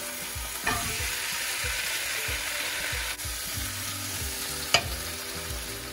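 Raw chicken pieces sizzling in hot oil with curry paste in a nonstick wok, stirred with a wooden spatula, with a steady frying sizzle. A sharp knock comes nearly five seconds in, with a fainter one near the start.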